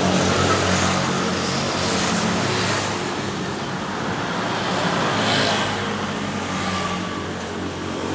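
Steady traffic noise with a low, steady engine hum.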